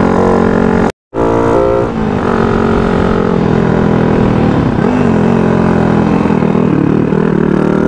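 Yamaha Sirius underbone motorcycle's engine running while riding, heard close from the rider's position. The sound cuts out for a split second about a second in, and the engine note dips and wavers about halfway through.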